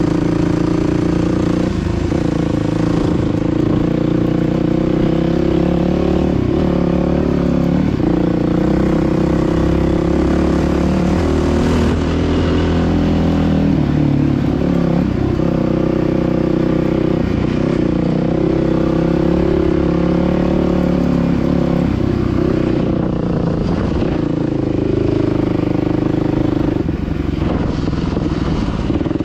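Dirt bike engine running, its pitch rising and dropping every few seconds with throttle and gear changes.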